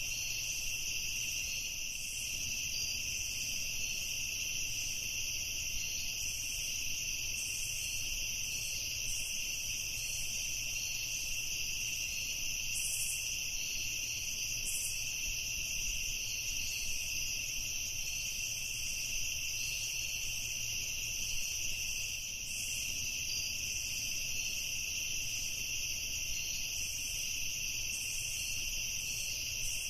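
Steady evening chorus of insects chirring, an unbroken high-pitched trill that holds level throughout.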